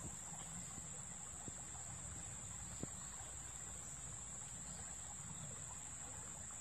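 Steady high-pitched drone of insects chirring without a break, over a low even rumble, with a couple of faint clicks.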